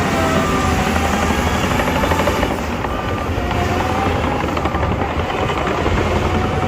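Heavy diesel earthmoving machinery running steadily, a deep engine rumble with a faint wavering whine above it.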